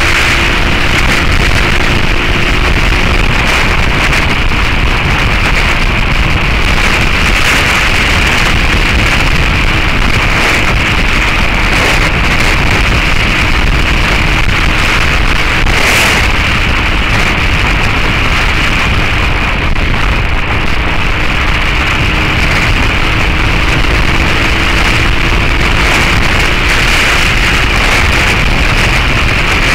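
Wind rushing over the action camera's microphone on a moving motorcycle, loud and steady, with the Suzuki SV650S's V-twin engine note through its Beowulf exhaust faint beneath it, drifting slowly up and down in pitch. There is a single brief tick about halfway through.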